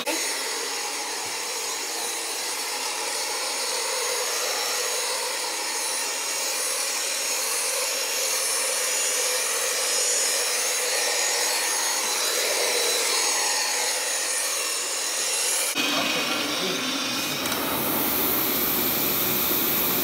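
Carpet agitation machine running, its brush scrubbing Berber carpet with a steady brushing motor noise as it works the pre-sprayed cleaning agents into the pile. Near the end it cuts to a different steady hiss from the hot-water extraction equipment.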